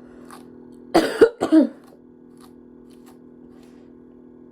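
A woman coughing: three quick coughs in a row about a second in.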